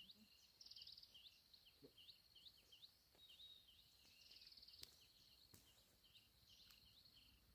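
Faint wildlife calls: a steady high insect trill that pulses now and then, with short high chirps repeating about twice a second over it. A single sharp click comes a little before five seconds in.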